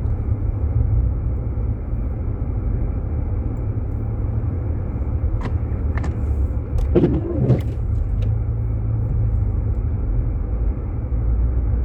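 Steady low rumble of a Jeep Grand Cherokee heard from inside the cabin, with a few sharp clicks and a short wavering sound about seven seconds in.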